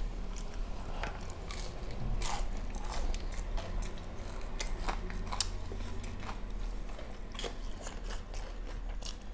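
Close-up chewing and biting on food, with irregular crisp crunching clicks.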